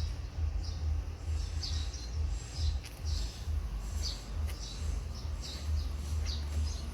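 Small bird chirping over and over, short high chirps about twice a second, over a steady low rumble.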